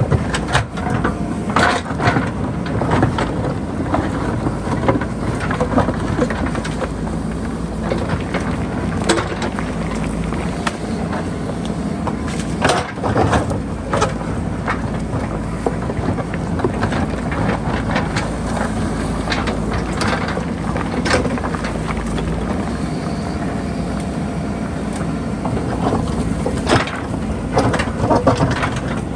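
JCB backhoe loader's diesel engine running steadily under work, with repeated sharp knocks and clanks scattered throughout.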